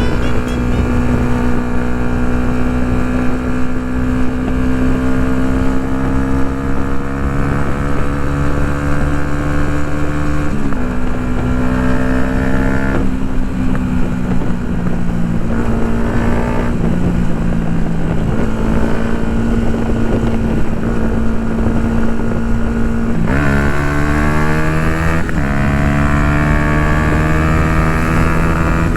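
Yamaha MT-125's 125 cc single-cylinder four-stroke engine running through an Akrapovic full exhaust while riding, holding a steady note for long stretches with a few shifts in pitch and two quick rises in revs near the end. Wind rushes across the microphone throughout.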